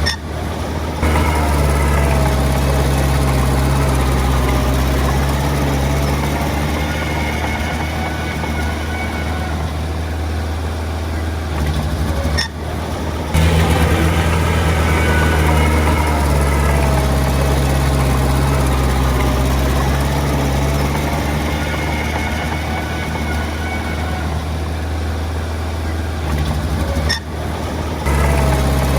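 Small bulldozer's diesel engine running steadily, a deep continuous hum that slowly swells and eases, with two brief breaks where the sound drops out for a moment.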